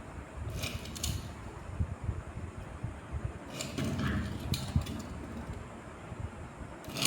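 Mechanical handling noise: a few short bursts of clicking and rattling, about half a second in, around four seconds in and near the end, over an uneven low rumble.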